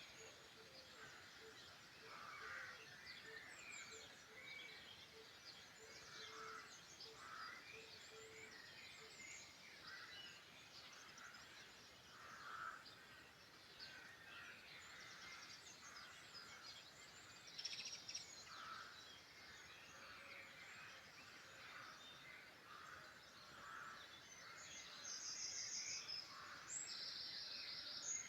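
Faint birdsong from several songbirds singing at once, with many overlapping chirps and trills. A lower note repeats steadily for the first several seconds, and brighter, rapid trills come near the end.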